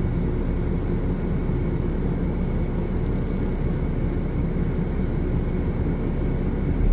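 Steady low engine rumble, even and unchanging.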